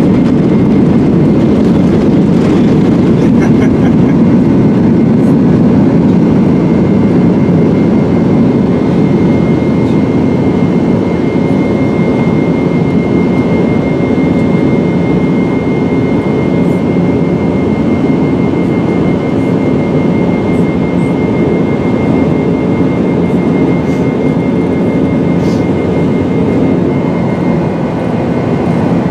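Steady, loud mechanical roar of a moving vehicle or machinery, with a thin, steady high whine.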